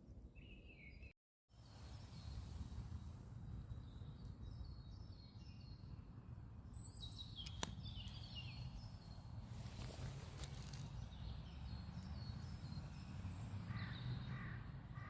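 Woodland birds chirping and trilling in short repeated phrases over a steady low rumble, with one sharp click about seven and a half seconds in.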